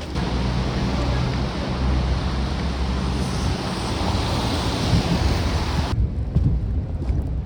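Wind buffeting the microphone in a snowstorm: a steady rushing noise over a low rumble, which cuts off abruptly about six seconds in, leaving irregular low thumps of gusts on the microphone.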